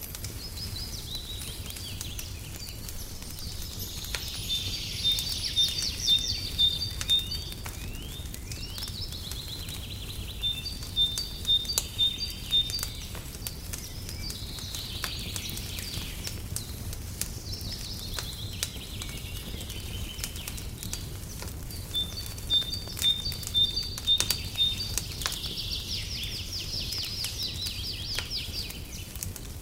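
A songbird singing in short trilled phrases that recur every few seconds, over the scattered crackle of a wood fire and a steady low rumble.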